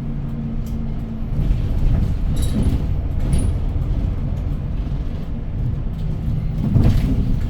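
City bus running, heard from inside the cabin: a low engine and road rumble with small rattles. A steady engine drone for the first second or so gives way to a rougher rumble, and there is a brief louder swell near the end.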